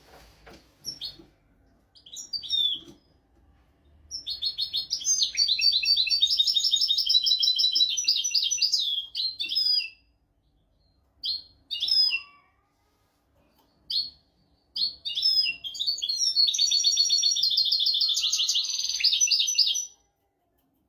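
European goldfinch singing: two long, rapid twittering song phrases, the first beginning about four seconds in and the second about fifteen seconds in, with short single chirps in between.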